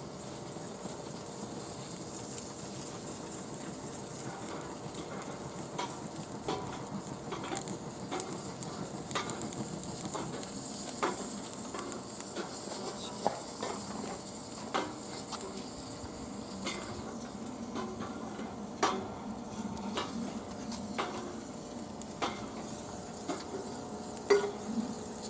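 Firewood burning in a fire pit, crackling with a steady hiss and irregular sharp pops, which grow more frequent in the second half.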